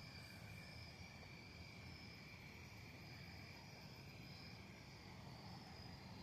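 Near silence: faint, steady high chirring of insects such as crickets, pulsing slowly, over a low rumble.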